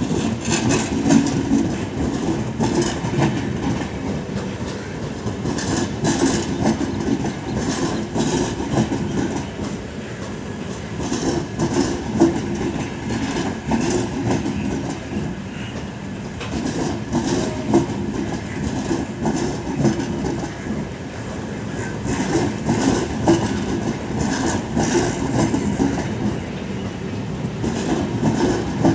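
Indian Railways passenger coaches rolling past at low speed, the wheels running with a steady rumble and repeated clickety-clack over rail joints and points.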